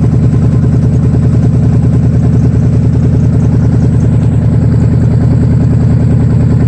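1991 GMC K1500's V8 engine idling steadily with an even pulse, running on a fresh set of spark plugs.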